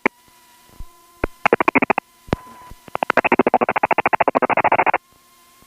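Rapid pulsing buzz of interference over the aircraft radio/intercom: a few clicks, a short burst about a second and a half in, then a two-second run of fast pulses, about twenty a second, over a faint steady tone.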